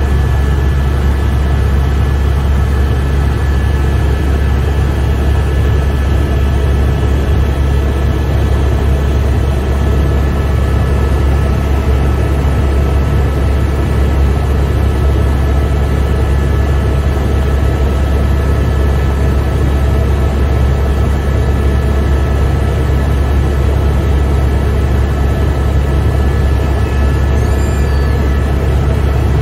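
Helicopter in flight heard from inside the cabin: a loud, steady deep drone with a thin constant whine above it.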